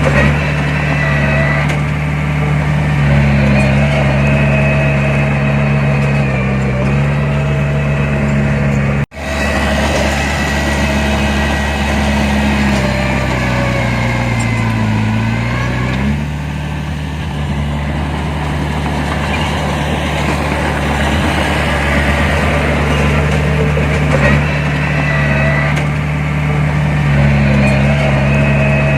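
Heavy diesel engine of earthmoving machinery running steadily, with a faint whine above it. The engine note sags and recovers about halfway through, and the sound cuts out for a split second about nine seconds in.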